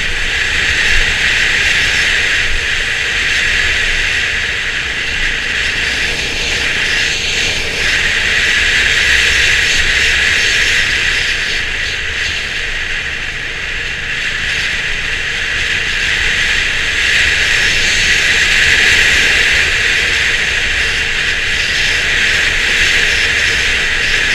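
Steady loud rush of wind and road noise from a motorcycle on the move. The Honda CB350 RS's single-cylinder engine runs low underneath, swelling and easing a little as the ride goes on.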